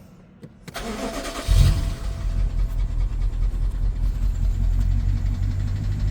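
BMW 750Li's N63 twin-turbo V8 being started: the starter cranks briefly, the engine catches about a second and a half in with a loud flare, then settles into a steady idle.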